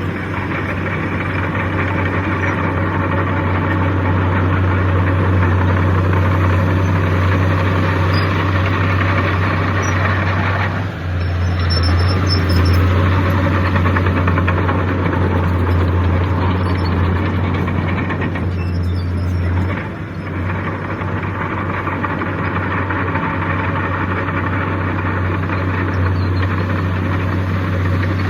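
Heavy diesel engine of earthmoving machinery running steadily, with a strong deep drone. Its note changes about 11 seconds in and again near 20 seconds.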